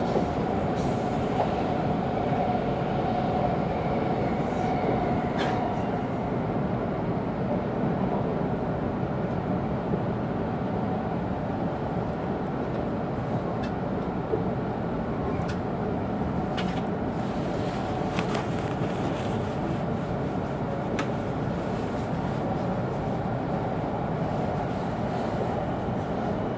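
Interior running noise of an E2 series Shinkansen car: a steady rumble from the train under way, with a faint tone in the first few seconds and several short sharp clicks scattered through the rest.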